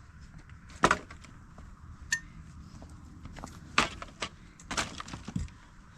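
A few irregular sharp knocks and clacks, the loudest about a second in and a cluster of them between about four and five and a half seconds, over a low steady background.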